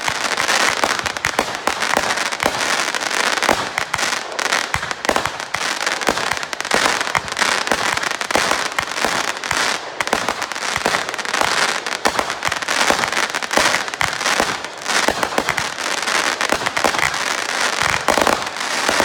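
Fireworks crackling continuously: a dense, unbroken run of rapid sharp pops and crackles.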